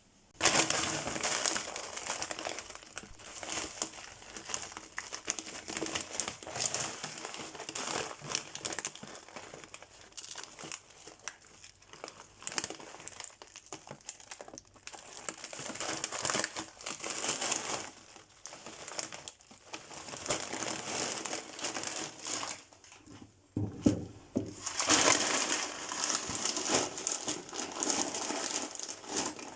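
Plastic bags and packaging crinkling and rustling continuously as groceries are handled and unpacked. The rustling pauses briefly about three quarters of the way through, where there is a single dull knock, then starts again.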